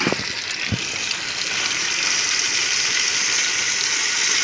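Chicken and spice masala sizzling in hot oil in a cooking pot as soaked lentils are tipped in. There are a couple of soft bumps in the first second, and the sizzle grows louder after about a second and a half.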